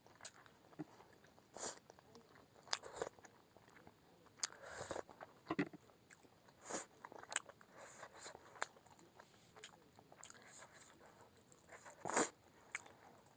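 A person eating momos close to the microphone: chewing and biting, with irregular short clicks and mouth noises, the loudest about twelve seconds in.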